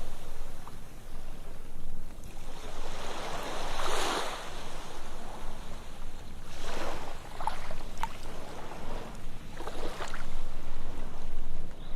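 Ocean waves breaking and washing up a sandy beach, the surf swelling and falling back about every three seconds.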